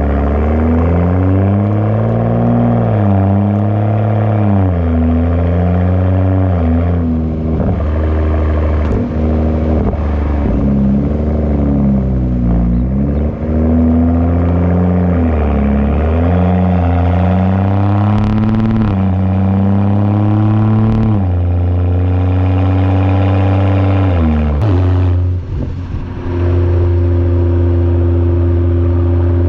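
BMW F30 335i's turbocharged inline-six and exhaust under driving, the revs rising and falling repeatedly through gear changes and throttle lifts. About 26 seconds in it settles to a steady, even drone at constant revs.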